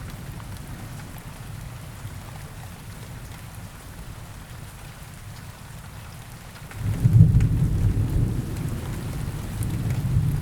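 Steady rain falling, with a low rumble of thunder that swells suddenly about seven seconds in and rolls on.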